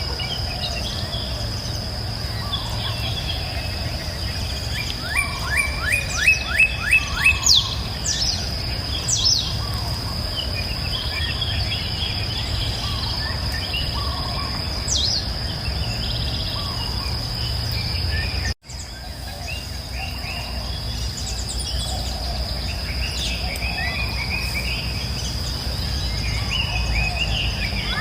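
Wild birds singing and calling, including a quick run of repeated down-slurred notes, over a steady high-pitched insect drone and a low, even rush. The sound cuts out for an instant about two-thirds of the way through.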